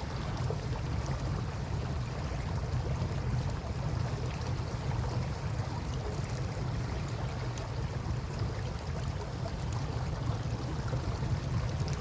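Campfire beside a river: a steady low rush of moving water, with sparse small crackles from the burning wood.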